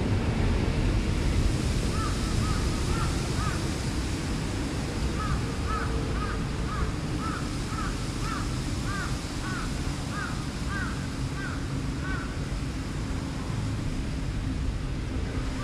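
A bird calling in quick runs of short rising-and-falling notes, about two a second, with a break of a second or two between runs, over a steady low background noise.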